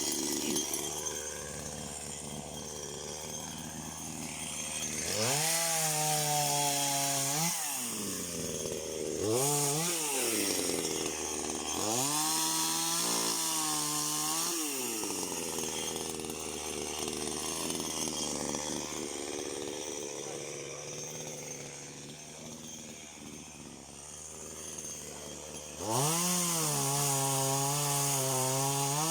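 Chainsaw engine revved up to high speed in four bursts and dropping back to a low idle between them.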